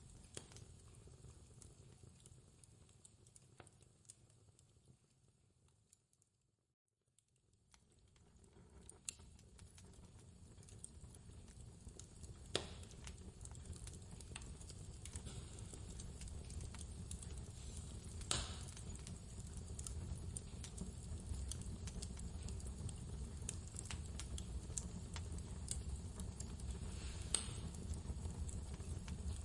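Wood fire crackling with scattered sharp pops over a low, steady rumble of storm wind. About six seconds in, everything fades out to silence for a second, then fades back up and grows gradually louder.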